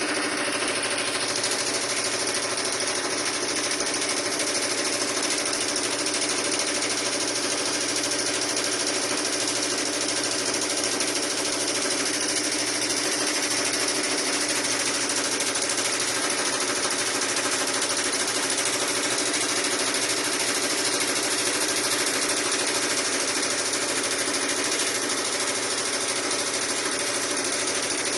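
Sharp washing machine running, a steady mechanical hum and rattle with no break.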